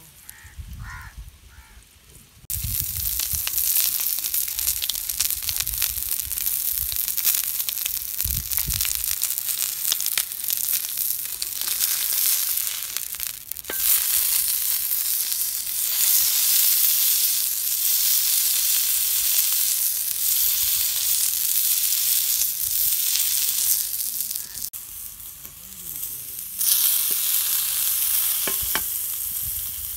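Chicken breast frying in oil on a hot ridged grill pan: a steady sizzle that starts abruptly about two and a half seconds in, dies down briefly near the end, then picks up again.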